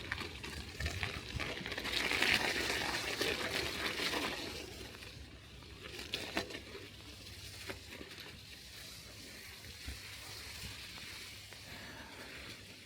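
Bicycle tyres hissing through wet snow and slush, loudest about two to four seconds in and then softer, with a few light clicks.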